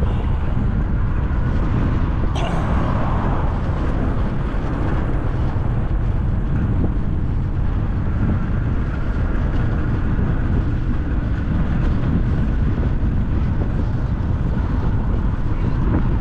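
Wind rushing over the microphone while riding a bicycle: a steady low rumble, with a sharp click about two and a half seconds in.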